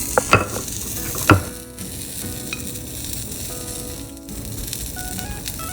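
Crappie frying in hot oil, a steady sizzle. Several sharp knocks of a utensil against the pan fall in the first second and a half.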